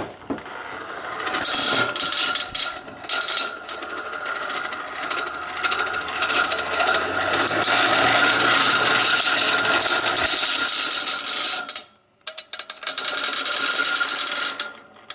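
Hand-cranked forge blower being cranked up to speed, its gears whirring with a chattering rattle from the fan inside. It stops briefly near the end and then runs again.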